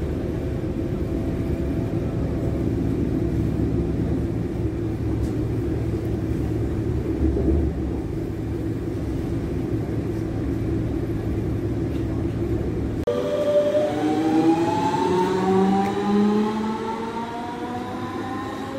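Steady rumble of a regional electric train running on the rails, heard from inside the carriage. About two-thirds in it cuts to a red electric multiple unit at a station platform pulling away, its traction motors whining in several tones that rise together as it speeds up.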